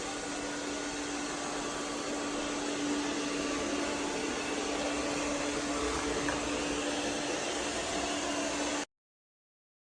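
Kilgone robot vacuum running with a steady whir and a constant low hum, cut off abruptly near the end.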